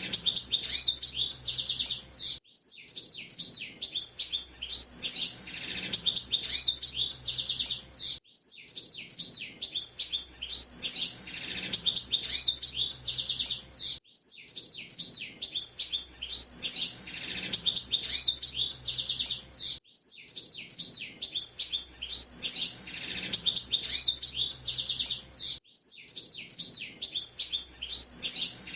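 Hooded siskin singing: a long, rapid, high twittering song of chirps and trills that breaks off briefly about every six seconds and starts again.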